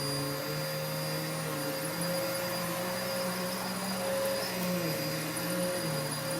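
Vacuum cleaner running steadily, its motor hum shifting slightly up and down in pitch as it is worked.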